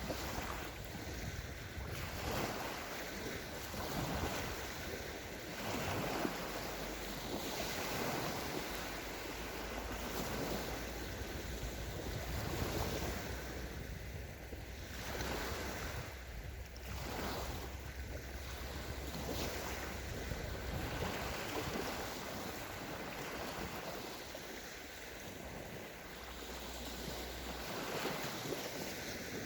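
Small sea waves breaking and washing up on a sandy beach, swelling and falling every few seconds, with wind buffeting the microphone.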